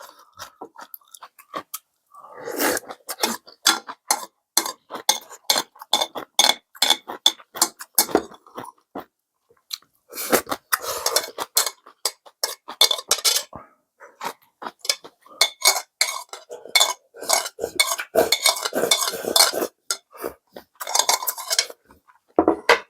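Spoon and chopsticks clinking and scraping against a dish while ramen is eaten, in quick irregular strokes with a couple of short pauses.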